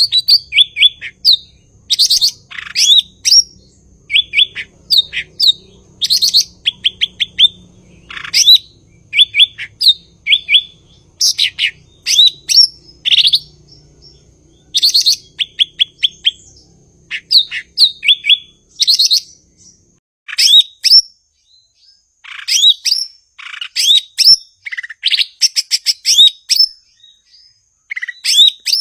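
Cucak ijo (green leafbird) singing loudly: a busy song of short, sharp up-sweeping whistles and fast trilled runs, delivered in quick bursts with brief pauses.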